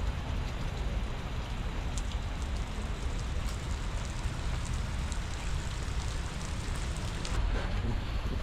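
Steady rainfall, an even hiss with scattered faint drop ticks and a low rumble underneath.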